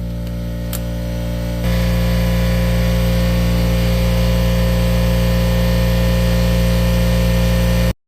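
Air compressor running steadily, a low motor hum. It gets louder about a second and a half in and cuts off suddenly near the end.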